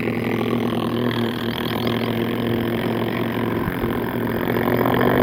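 Engine running steadily at an even pitch.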